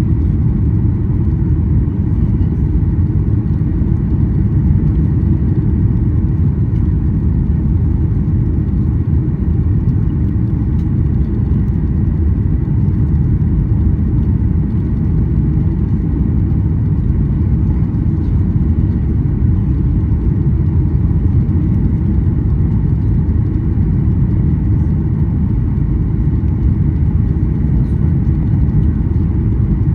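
Steady low rumble of a Boeing 737-800's cabin, the jet engines and passing air heard from a passenger seat, with no change in level throughout.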